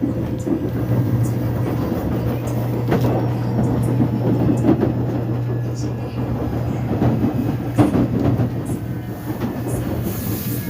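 Korean commuter subway train running between stations, heard from inside the carriage: a steady low motor and wheel hum under rumbling track noise, with irregular clicks and knocks from the rails and car body.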